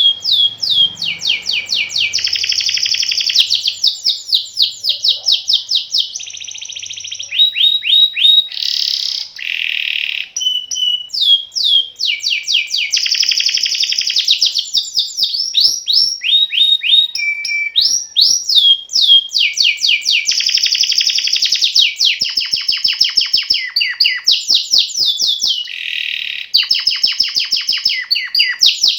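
Domestic canary singing a long, unbroken rolling song: fast trills of repeated downward-sweeping notes alternating with dense buzzing rolls, with no pauses between phrases.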